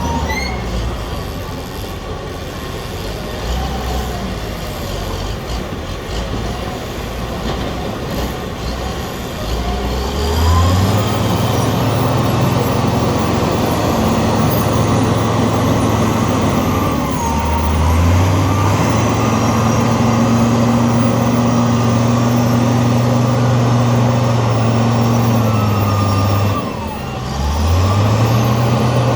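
Michigan 55C wheel loader's diesel engine working under load. It runs at lower revs for about the first ten seconds, then revs up and holds high. The revs dip briefly twice and climb back each time.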